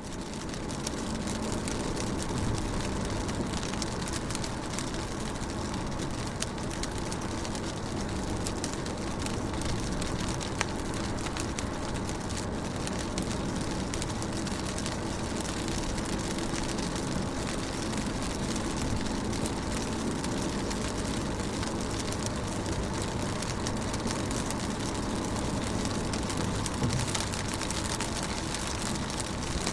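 Rain on a car, with many small drops tapping on the window glass over a steady low rumble. The sound swells in over the first second, then holds even.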